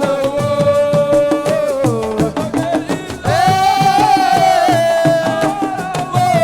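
Assiko band music: hand drums beating a quick, steady rhythm under a melody of long held, slightly wavering notes, with a new long note starting about three seconds in.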